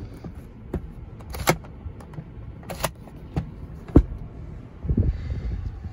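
The 4Runner's 4.0 L V6 idling, a low steady rumble heard from inside the cabin. Scattered sharp clicks of hands on the trim run over it, with a heavier thump about four seconds in.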